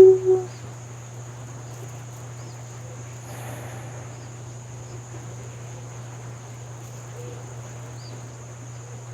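Insects keep up a steady high drone over a low, steady rush of flowing river water, with a few faint chirps. A loud held tone cuts off abruptly in the first half second.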